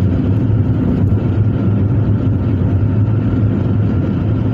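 Steady road and engine noise of a vehicle cruising across a long bridge: a constant low drone with tyre rumble and a faint steady whine.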